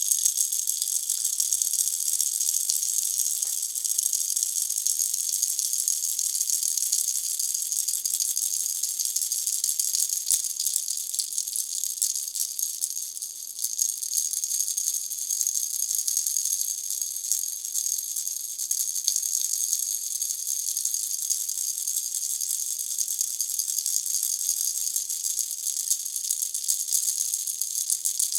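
Pineapple-shaped baby rattle toy shaken without a break, a dense, steady, high-pitched rattling of the pieces inside, easing briefly about halfway through.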